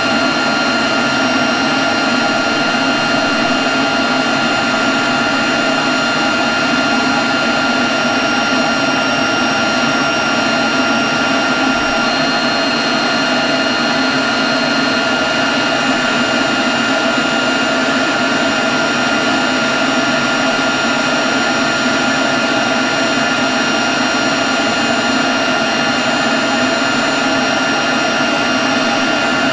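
Leaf blower running steadily at constant speed: a loud rush of air with a steady high whine over it.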